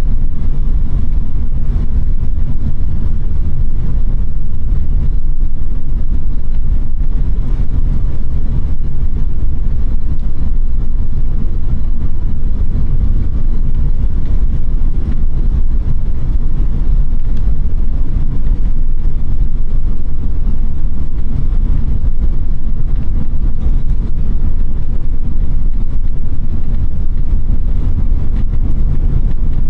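1996 Chevrolet Impala SS's 5.7-litre LT1 V8 running steadily, a loud low rumble with no revving.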